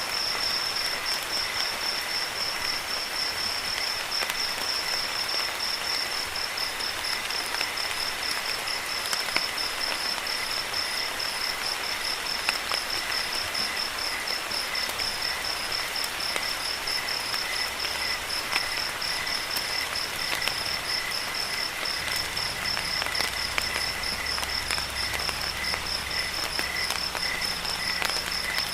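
Crickets chirping in a continuous, rapidly pulsing high trill over steady rain, with scattered drop ticks.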